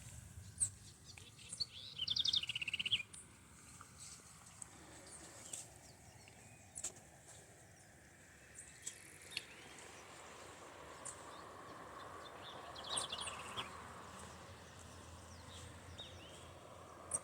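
Wild birds calling: a fast, rattling trill falling in pitch about two seconds in, repeated once near thirteen seconds, with scattered short, high chirps between.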